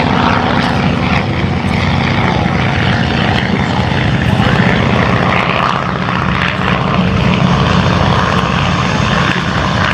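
Avro Anson Mk.I's twin Armstrong Siddeley Cheetah radial engines and propellers running steadily as the aircraft flies a display pass.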